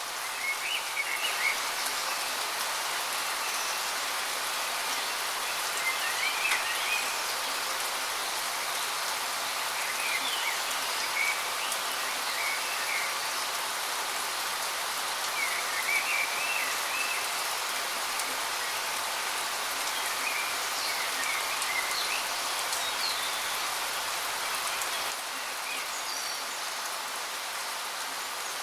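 Steady rushing of a waterfall, with short bird chirps and calls coming every few seconds over it.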